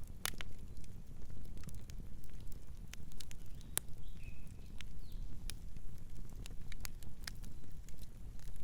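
Campfire burning, with irregular sharp crackles and pops of burning wood over a steady low rumble of flame. A faint bird chirp comes about four seconds in.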